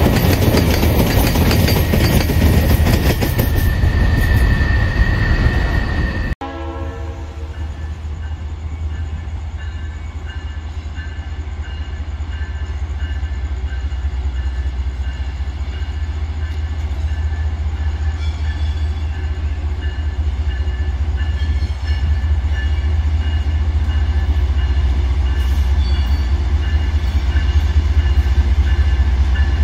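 Empty steel ore gondola wagons rolling past close by, with loud wheel-on-rail noise and a brief high squeal. About six seconds in it switches to a Dash-9 diesel locomotive approaching slowly, its engine a deep steady rumble with a high tone pulsing evenly above it.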